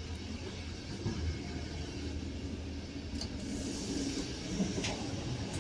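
Steady low rumble of a moving passenger train heard from inside a carriage, with a few sharp clicks about three seconds in and near the end.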